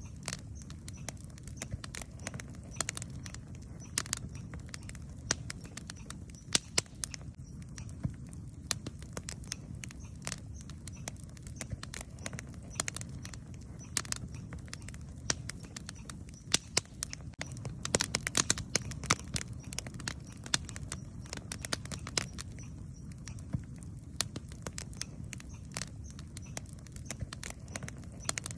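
Wood campfire crackling and popping in irregular sharp snaps over a steady low rumble, with a denser run of pops about two-thirds of the way through.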